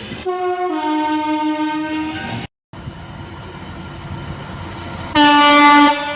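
Train horns: a two-tone horn sounds a higher note and then steps down to a lower one, held for about two seconds. It cuts off abruptly, followed by train running noise, and then a short, loud horn blast near the end.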